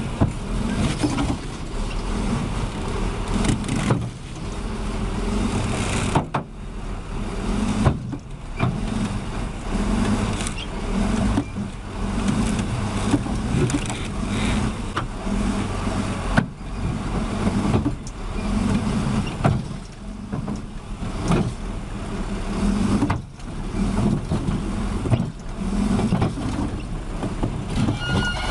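Heavy vehicle engines running steadily with a low rumble, broken by several abrupt cuts between clips.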